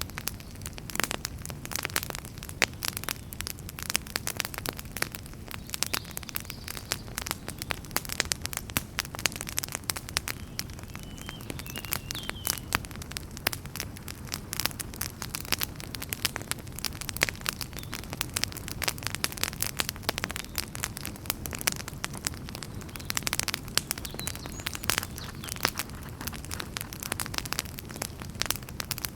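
Wood fire in a fireplace crackling and popping continuously, dense sharp snaps over a steady low rumble of the flames, with a faint short whistle near the middle.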